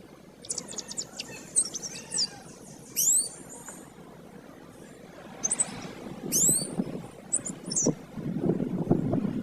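Domestic canary singing in short, rapid bursts of high, sweeping chirps and trills. A low, uneven rumbling noise comes in about halfway and is as loud as the song near the end.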